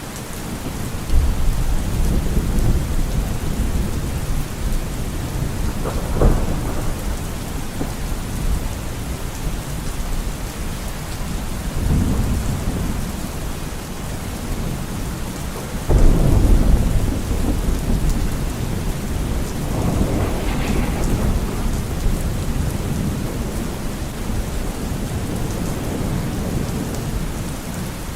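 Steady rain with thunder rumbling again and again over it. A sharp crack comes about six seconds in, and the loudest, sudden clap comes about sixteen seconds in.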